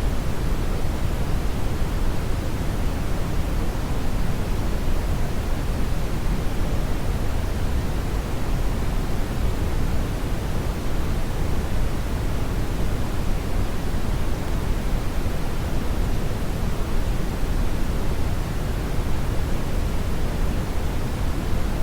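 Steady brown noise: an even rushing hiss, strongest in the bass, with no change or events.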